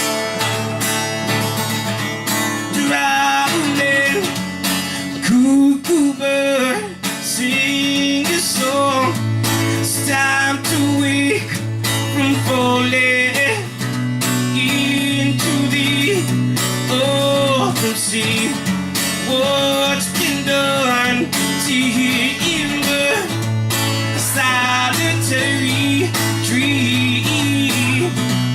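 Live acoustic guitar music, an instrumental break with a melody line that slides between notes over a steady accompaniment.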